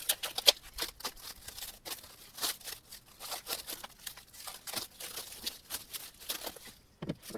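Hands handling 3D printer parts and plastic hardware bags: an irregular run of clicks, taps and rustles, with one sharp click about half a second in.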